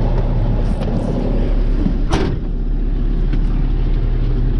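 Dump truck's N14 Cummins diesel engine running with a steady low drone, with one short sharp noise about two seconds in.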